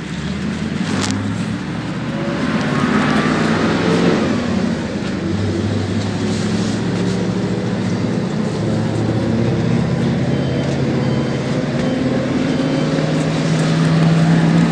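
PAZ-32054 bus engine running under load as the bus drives. The engine note rises and then steps down a few times, as with gear changes.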